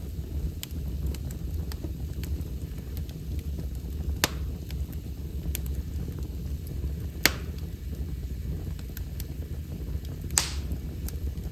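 Wood fire crackling in a fireplace: small scattered snaps over a steady low rumble, with three louder pops about three seconds apart.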